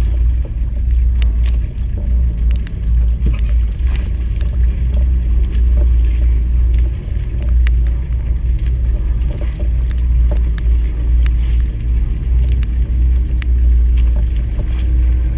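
Steady low rumble aboard a small fishing boat, with scattered light ticks throughout and a faint steady hum coming in near the end.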